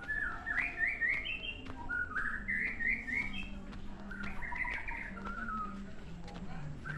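A songbird singing in repeated phrases of short, rising whistled notes that step up in pitch, over a faint steady low hum.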